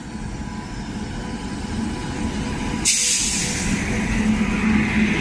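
WAP7 electric locomotive running past at speed with its train: a building rumble of wheels on rail with a faint steady whine, and a sudden rush of hiss about three seconds in as the locomotive draws level.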